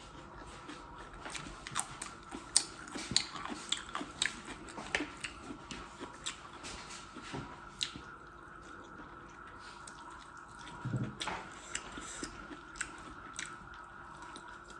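Close-up mouth sounds of eating: chewing with many sharp smacks and clicks, busiest in the first half and sparser in the second.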